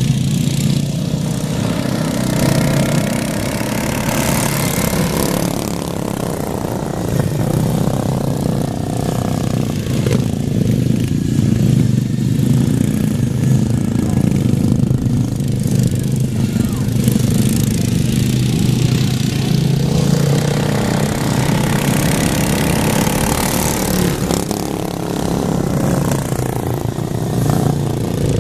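Several racing riding lawn mowers' small engines running hard together, their pitch rising and falling as they go by.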